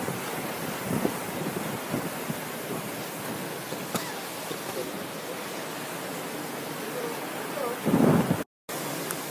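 Hurricane wind and rain, a steady even hiss, with a louder gust on the microphone about eight seconds in, just before the sound cuts out for a moment.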